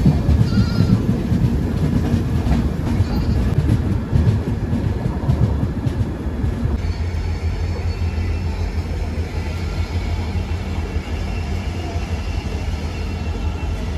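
Rumble of an Indian Railways passenger train at a station, uneven and clattering for the first several seconds, then settling into a steadier rumble with a faint high whine from about seven seconds in.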